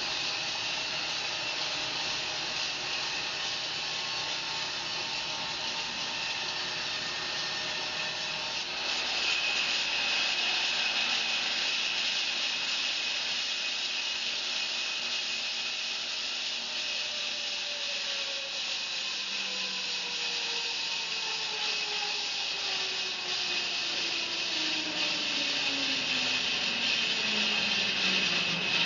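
Bandsaw mill blade sawing through a fir log, a steady hissing rasp that grows louder and brighter about nine seconds in. From about halfway, a tone falls steadily in pitch until near the end.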